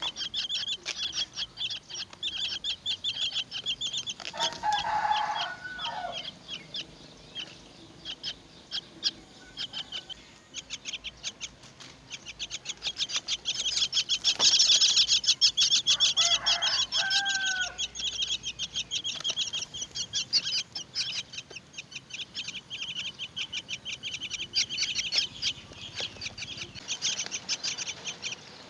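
Common myna nestlings begging with a rapid run of high chirps, which eases briefly about ten seconds in. Two lower, harsher bird calls stand out about five and seventeen seconds in.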